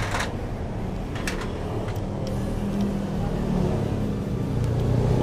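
Steady low drone of a vehicle engine running nearby, growing a little louder, with a few sharp clicks of tools or metal parts being handled near the start and about a second and two seconds in.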